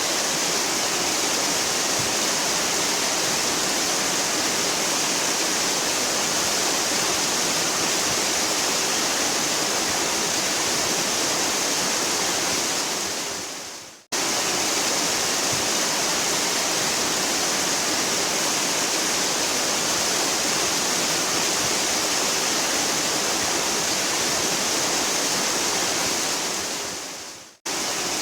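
Waterfall rushing: a dense, steady roar of falling water with a bright hiss on top. It fades away twice, about halfway through and again near the end, and each time cuts abruptly back in at full level, as where a recording is looped.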